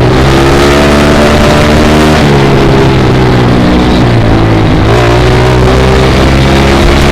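Small dirt bike engine running hard, loud and close, its pitch climbing and then dropping back several times as the throttle is worked.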